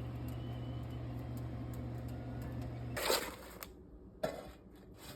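A steady low electric-motor hum from a kitchen appliance, which stops about three seconds in with a short clatter, followed about a second later by a single sharp knock.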